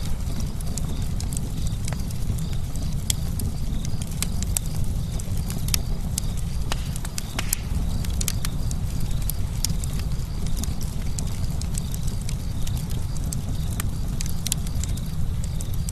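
Campfire crackling: irregular sharp pops and snaps, many a second, over a steady low rumble of the burning wood.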